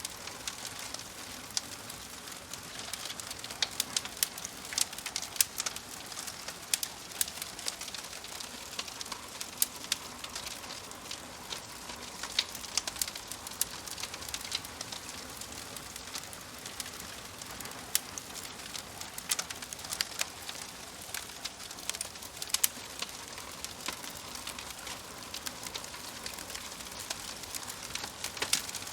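Wood fire crackling in a fireplace: a steady hiss with irregular sharp pops and snaps throughout.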